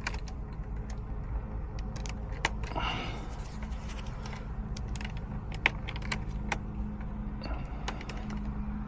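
Scattered small metallic clicks and rattles of tools and parts being handled during HVAC repair work, over a steady low hum.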